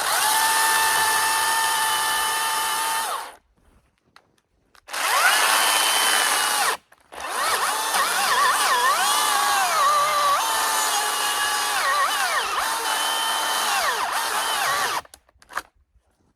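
Milwaukee battery top-handle chainsaw run three times: a short steady high whine, a second brief run that spins up, then a long run whose pitch dips and recovers as the chain bogs in the cut.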